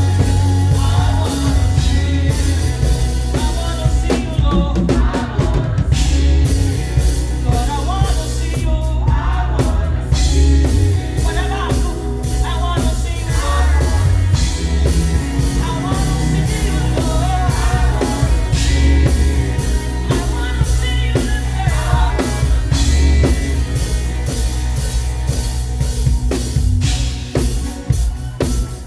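Live band playing praise music, with voices singing over drum kit and a heavy bass line.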